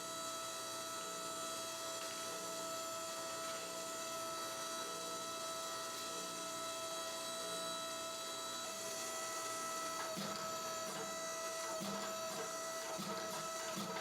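Steady electric motor hum with a high whine made of several fixed tones, from shop machinery. From about ten seconds in, faint irregular knocks and a low pulsing join it.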